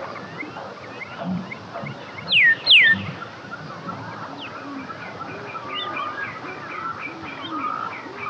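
Birds chirping and calling in a busy chorus, with two loud downward-sliding whistles about two and a half seconds in.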